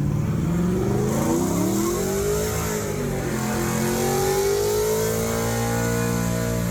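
Car engine revved hard and held high for a burnout: its pitch climbs, drops back about three seconds in, then climbs again and holds. A strong hiss runs over the top from about a second in.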